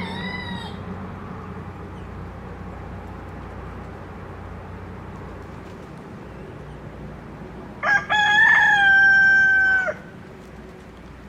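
Rooster crowing: one loud crow of about two seconds near the end, held steady then cut off. A short, falling bird call at the very start, over a steady low hum.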